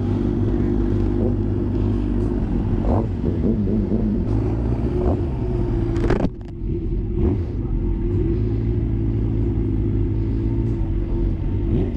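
Vehicle engines running steadily at low revs, with a brief dip and change in the sound about six seconds in.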